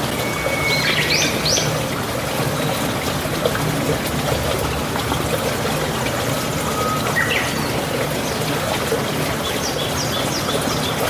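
Steady rush of running water, with birds calling over it: a held whistle breaking into quick rising notes about half a second in, another held note rising about seven seconds in, and a few short high chirps near the end.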